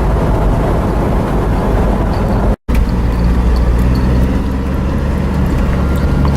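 Car driving along a road, heard from inside the cabin: a steady low engine and road rumble, with a brief dropout about two and a half seconds in.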